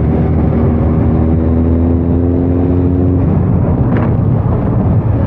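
A motor vehicle's engine running steadily under road and wind noise. A steady whine with a slightly rising pitch fades out about three seconds in.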